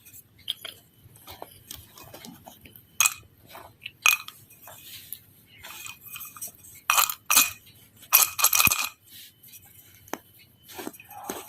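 Hard objects clinking and tapping together in an irregular series of sharp clinks, some with a short ringing tone. The loudest clinks come about seven and eight seconds in.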